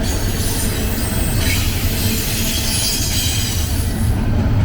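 BNSF intermodal freight train rolling past close by: a steady, loud rumble of steel wheels on rail, with a faint high wheel squeal through the middle.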